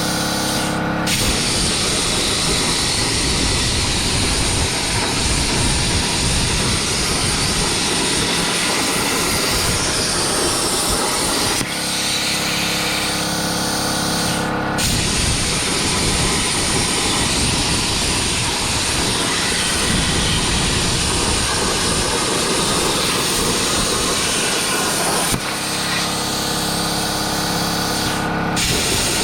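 Langmuir Crossfire Pro CNC plasma table cutting: the plasma arc hisses loudly in long runs of about ten seconds. About 12 s in and again about 25 s in the hiss stops for around three seconds, leaving a steady multi-tone hum, then the arc fires again.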